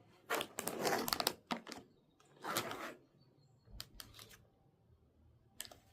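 Crinkling of a food wrapper being handled in a few short bursts, followed by several light clicks.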